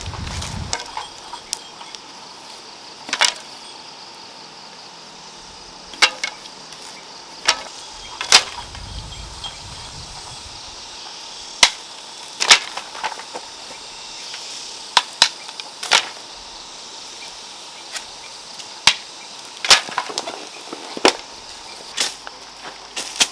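About a dozen sharp, crisp cracks, like wood or stalks being struck or snapped, at irregular intervals of one to three seconds, over a faint steady high hiss.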